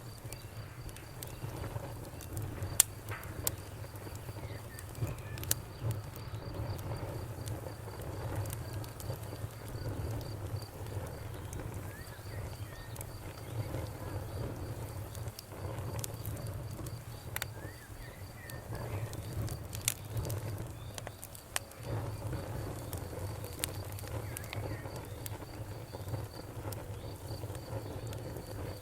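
Bonfire crackling, with scattered sharp pops, over crickets chirping in a steady, fast high trill and a low, steady rumble underneath.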